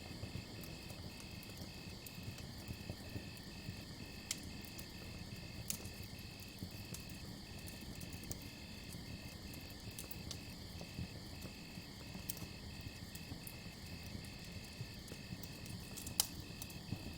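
Crickets chirping in an even rhythm, about two to three chirps a second, over a crackling campfire with scattered sharp pops. The loudest pop comes near the end.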